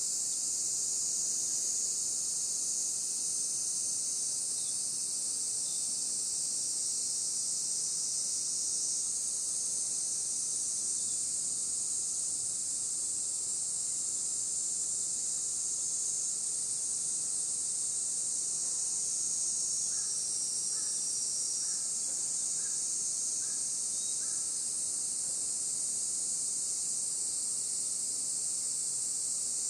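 Steady, high-pitched insect chorus, crickets or cicadas, shrilling without a break. About two-thirds through, a short run of seven lower chirps comes at about two a second.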